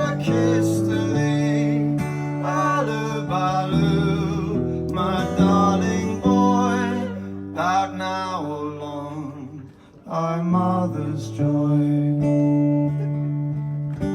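Acoustic guitar strummed under a wavering melody line. The music drops away briefly about ten seconds in, then the guitar comes back in.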